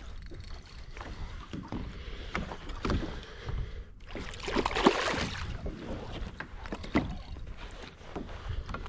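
Water lapping and splashing around a fishing kayak, with scattered small clicks and knocks, and a louder rush of splashing about four to six seconds in.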